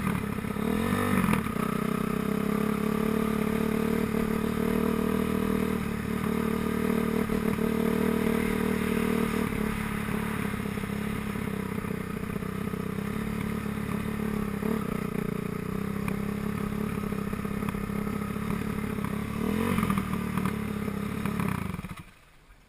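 Motocross bike engines running steadily, with the revs swooping up and down a few times, then cutting off abruptly near the end.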